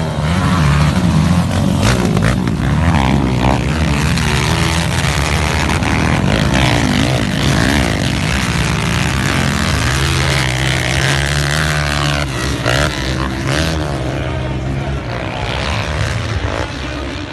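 A pack of motocross bikes racing, many engines revving up and down over one another in overlapping, shifting pitches, easing slightly near the end.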